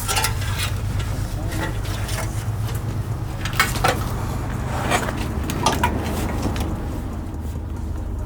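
A few sharp metallic clinks and knocks over a steady low rumble.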